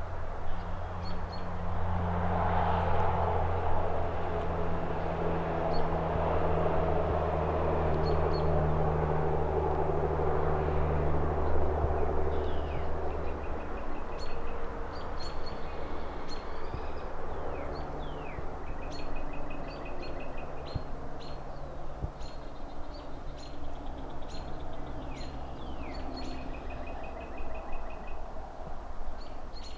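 Distant city traffic hiss with a vehicle's low engine hum that fades away about halfway through, while small birds chirp and trill repeatedly, more often in the second half.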